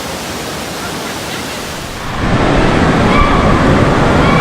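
Steady rushing water noise that jumps markedly louder about two seconds in.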